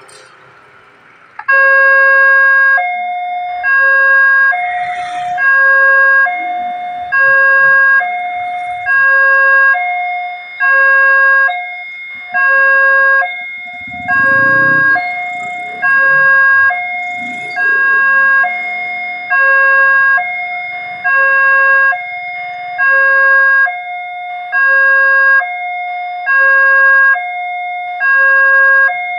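Railway level crossing warning alarm switching on about a second and a half in: an electronic two-tone signal alternating between a lower and a higher pitch, about one high-low cycle every second and a half, sounding as the crossing closes for an approaching train.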